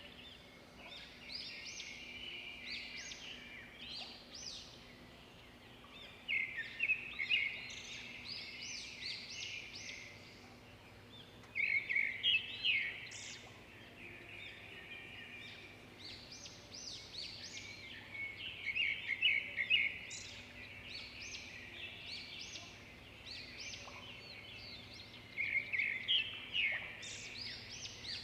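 Songbirds singing: loud phrases of rapid notes about every six or seven seconds, with softer chirping between them.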